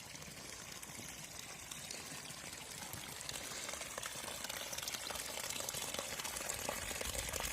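Running water splashing and pouring steadily, growing louder over several seconds.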